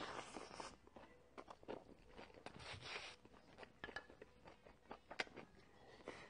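Faint close-up chewing and mouth sounds of a person eating mixed bibimbap, with scattered short clicks.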